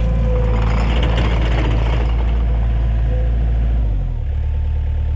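Takeuchi TL130 compact track loader's diesel engine running under load, with a steady hydraulic whine and some clatter. Its engine note drops to a lower, steadier pitch about four seconds in.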